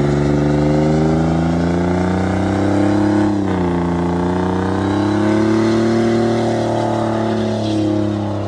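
A vehicle engine held at high revs. Its pitch sags briefly about three seconds in, then climbs back and holds.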